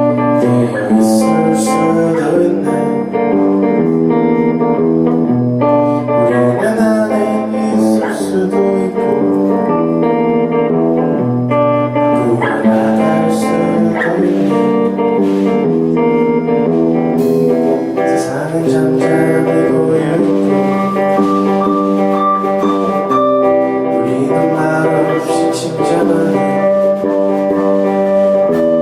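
A rock band playing a song live, carried by guitar chords that change every second or two, with a few brief cymbal-like hits.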